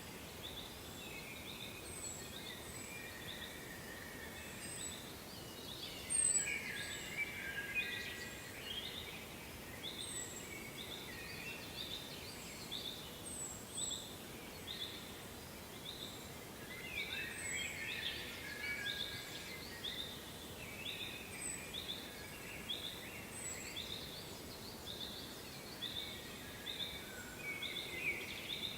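Several small birds singing, a steady stream of short, repeated chirping notes over faint steady background noise, with one sharp click about six seconds in.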